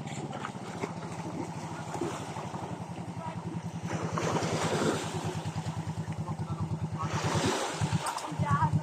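Small boat engine running with a steady, rapid low chugging that turns uneven near the end, with a rush of water noise swelling about four seconds in and again around seven.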